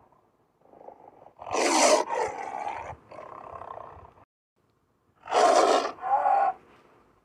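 Siberian tiger roaring: a loud roar about a second and a half in that trails off into a lower, weaker call. After a pause, a second loud roar comes, followed at once by a shorter call.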